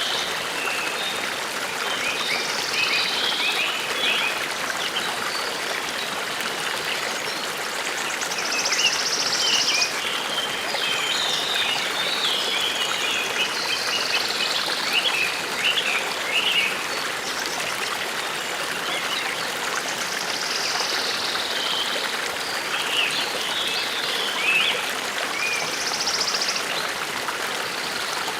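Forest brook running steadily, with small birds chirping and trilling over it in short, scattered phrases.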